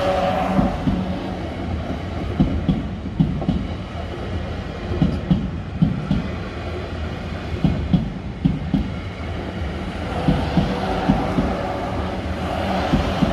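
South Western Railway Class 444 electric multiple unit passing at speed, a steady rumble broken by wheels knocking over rail joints, often two knocks close together, as each bogie crosses. A whine comes in near the start and again in the last few seconds.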